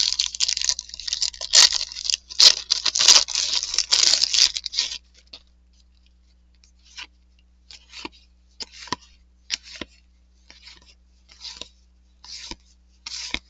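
Crinkling, tearing-like rustle of a trading-card pack wrapper and cardboard cards being handled for about five seconds, then short snaps of individual cards being flipped, roughly one a second.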